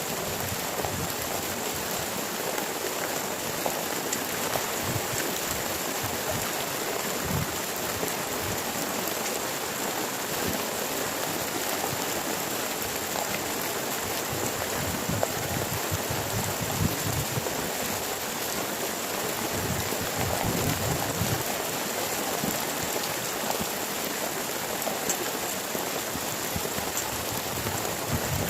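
Heavy rain falling steadily: a constant hiss with many small drop hits scattered through it.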